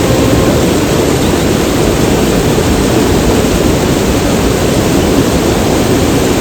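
Loud, steady rushing noise with no pitch or rhythm in it, starting and stopping abruptly.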